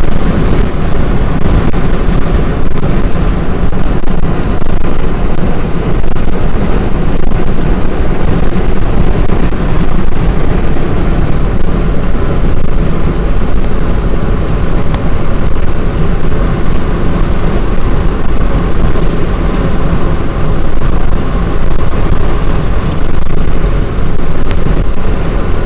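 Steady, loud road and wind noise of a car being driven along.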